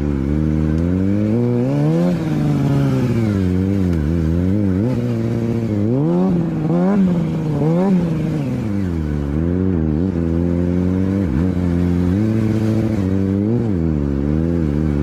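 Motorcycle engine running continuously, its revs rising and falling again and again every second or two.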